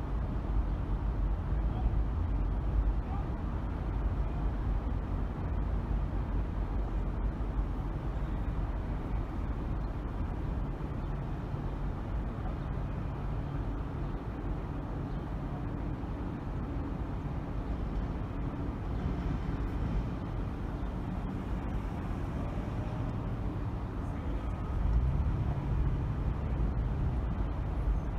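A car driving on city streets: a steady low rumble of road and engine noise, swelling for a few seconds near the end.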